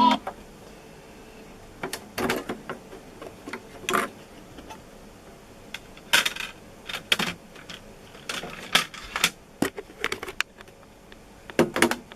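Scattered plastic clicks and short clatters of CD discs and cases being handled, one here and there with a quick cluster near the end.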